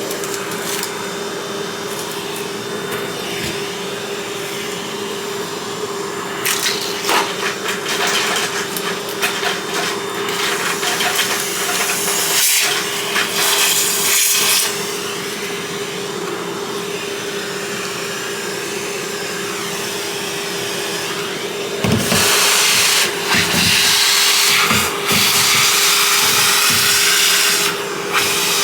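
Vacuum cleaner running with a steady motor hum and rushing airflow. Louder stretches of clicking and rattling come and go, the longest starting about three-quarters of the way in, as small LEGO pieces are sucked up.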